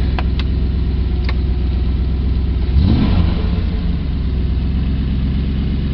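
Triumph Stag's original 3.0-litre V8 idling steadily, heard from inside the cabin, with a brief blip of revs about three seconds in. A few sharp clicks from the radio controls near the start.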